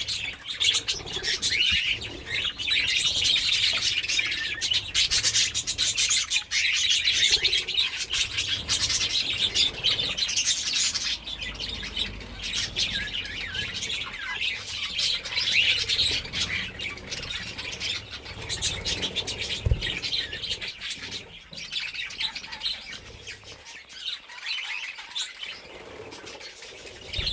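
Budgerigar chattering and warbling almost without pause, mixed with crackly rustling and scratching as it plays with a leaf; the chatter eases off near the end.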